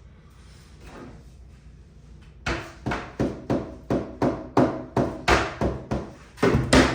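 Rapid series of about fourteen sharp knocks on the glued-up wooden drawer box, roughly three a second, each with a short ringing decay, starting a little over two seconds in.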